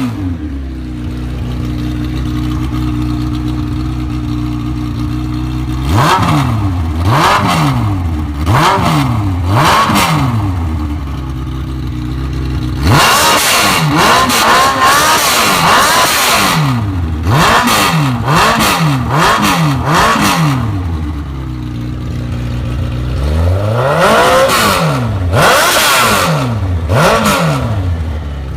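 2005 Suzuki Hayabusa's inline-four engine through short shorty exhaust pipes, ear piercing: idling steadily, then blipped again and again and held at higher revs a few times, dropping back to idle between the bursts.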